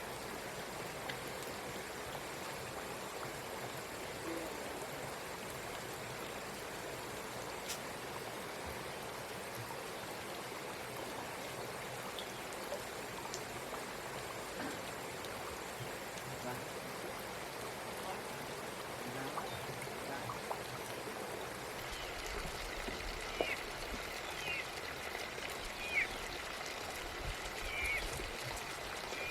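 Water running steadily, with a few faint short clicks or chirps near the end.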